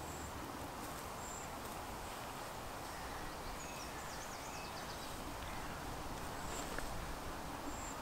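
Woodland ambience: a steady faint background with small birds calling at a distance, thin high-pitched chirps now and then and a quick warbling trill about halfway through.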